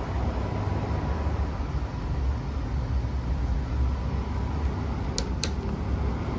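Frigidaire 5,000 BTU window air conditioner running steadily: a low hum under an even rush of air, with a faint steady tone. Two short clicks about five seconds in.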